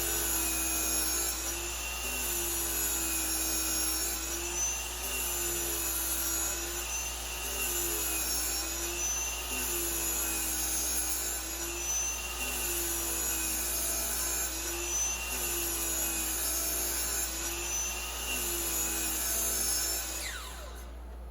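DeWalt DWS779/780 sliding compound miter saw running steadily, its pitch sagging briefly over and over as the blade takes load in the cut. Near the end the motor winds down with a falling whine.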